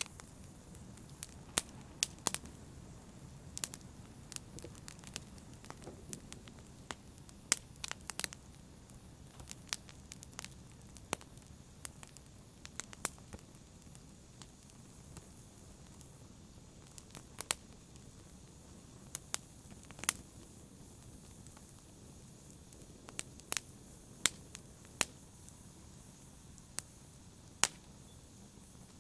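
Wood campfire burning: a steady low hiss of the flames with sharp crackles and pops of the wood at irregular intervals.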